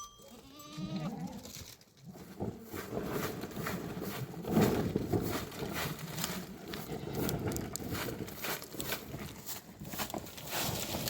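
A flock of goats and sheep bleating, with a short call near the start and, from about two seconds in, a dense mix of calls and many short knocks and rustles of the animals moving.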